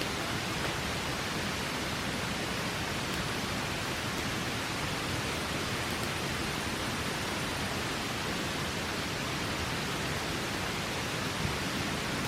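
River water rushing steadily, an even hiss with no change, with one faint crackle near the end.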